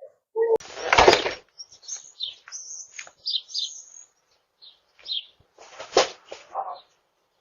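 Small birds chirping in short high calls, with two loud bursts of noise, one about a second in and another about six seconds in.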